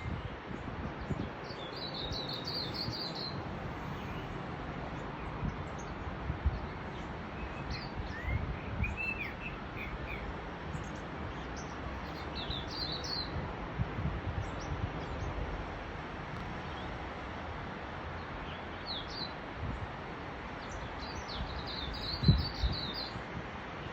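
Small birds chirping in short high bursts every few seconds over a steady rush of wind, with low gusts buffeting the microphone and a sharp gust-knock near the end.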